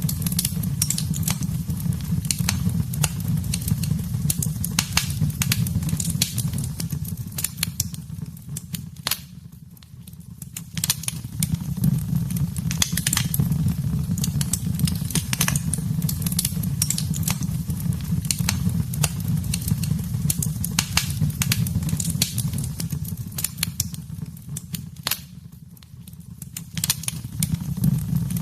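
Wood fire in a fireplace crackling and popping, with many sharp snaps over a steady low rumble of the flames. The sound fades down briefly twice, about ten seconds in and again near the end.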